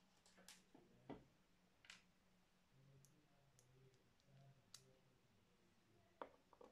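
Faint, scattered clicks and light taps, about eight in all, from small parts being handled while an HP 15-db laptop is put back together; otherwise near silence with a faint low hum.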